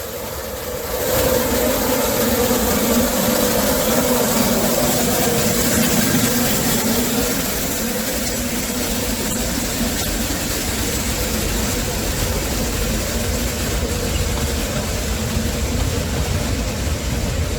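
A heavy engine running steadily, a continuous low drone with no breaks or revs.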